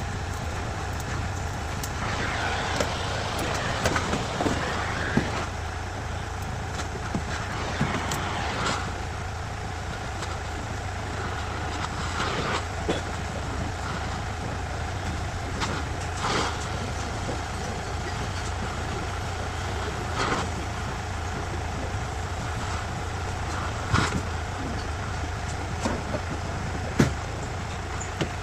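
A steady low mechanical hum, like a running engine or motor, with sharp knocks now and then, the loudest near the end.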